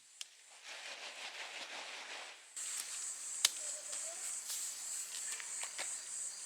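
Outdoor ambience of insects chirping in a steady high-pitched drone, setting in about two and a half seconds in. Two or three sharp clicks or knocks sound over it.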